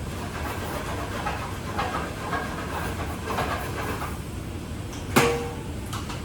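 Work sounds over a steady low rumble: scattered clattering, then one sharp metallic clank about five seconds in that rings briefly.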